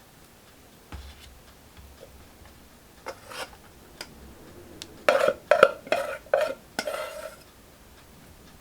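Tableware being handled: scattered light clicks, then a run of loud knocks and scrapes from about five to seven seconds in.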